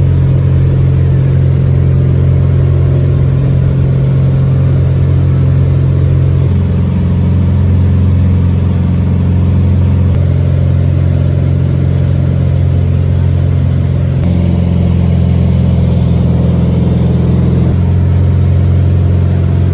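Car running at steady speed, a loud, even low drone whose pitch shifts in steps every few seconds.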